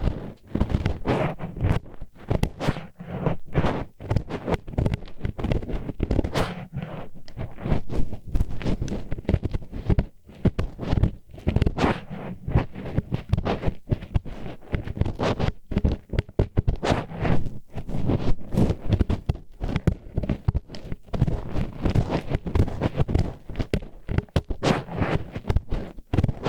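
Disposable wooden chopsticks scraping and grinding against the ear wall of an ASMR ear microphone, as in ear cleaning. The strokes come quickly and irregularly, without a break.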